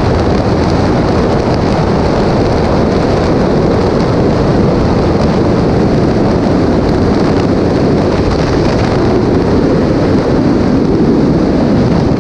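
Steady, loud wind and road noise of a vehicle driving at highway speed, with no changes in level.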